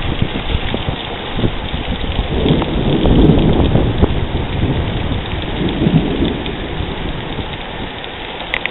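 Heavy rain falling steadily with rolling thunder, the rumble swelling strongest about three seconds in and again around six seconds.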